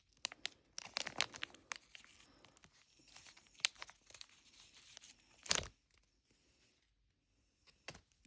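Small plastic blind bag being crinkled and torn open by hand, in bursts of crackling with a few sharper crackles.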